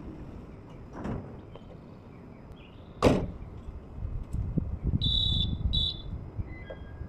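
Ambience around a stopped express electric train at a station platform: a low rumble throughout, one loud sharp burst about three seconds in, and two short high beeps near the end.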